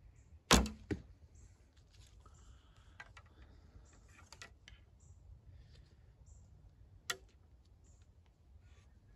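A loud, sharp knock with a smaller one just after it, then another sharp knock near the end, with faint clicks and rustling of small objects being handled between them.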